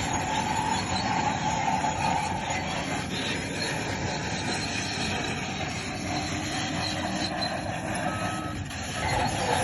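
Crawler bulldozer working, engine running with a squeal from its steel tracks, strongest at the start and again near the end.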